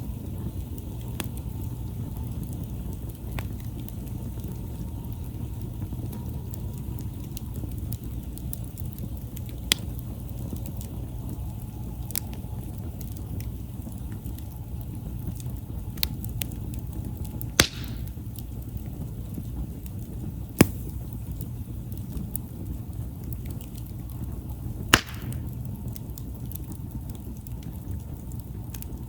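Wood campfire burning with a steady low rush, broken by occasional sharp pops and cracks from the burning wood, about six in all.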